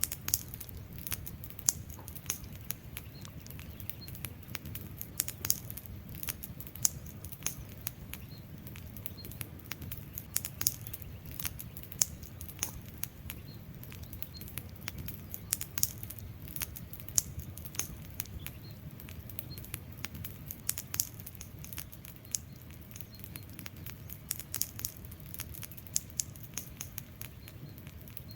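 Wood fire burning: a steady low rumble of flames with frequent, irregular sharp crackles and pops from the burning logs.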